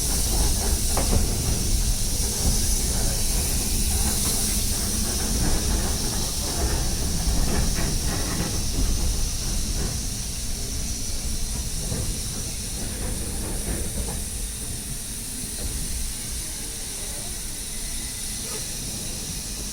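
Steam locomotive hissing steam steadily over a low rumble, with a few faint knocks, gradually getting quieter.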